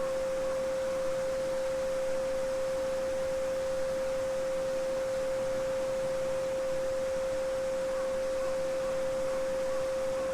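Steady 528 Hz pure sine tone (the solfeggio frequency) held without change, over the faint, even rush of a babbling brook.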